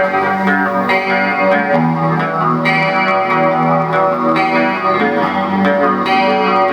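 Electric guitar played through an effects pedal, chords and notes ringing on with a chorus-like shimmer and some distortion, changing about once a second.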